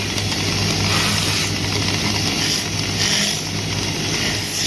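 Wood lathe running steadily with a low hum, while a hand tool cuts the spinning wood in uneven hissing strokes.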